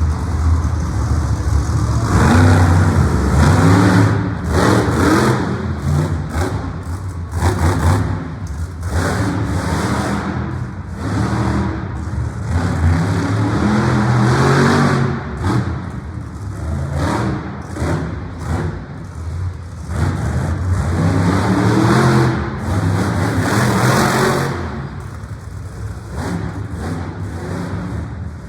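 Monster truck engine revving hard, its pitch climbing and dropping back several times over a continuous low engine sound.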